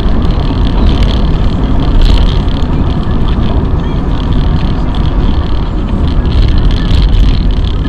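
Loud, steady vehicle rumble with no distinct impact.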